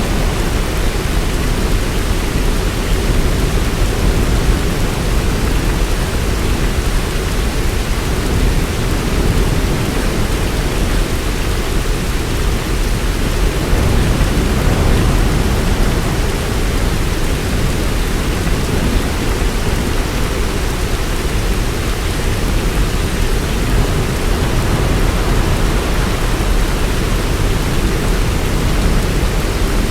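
Heavy rain falling steadily: a dense, even wash of noise with a deep low rumble underneath and no separate drops or claps standing out.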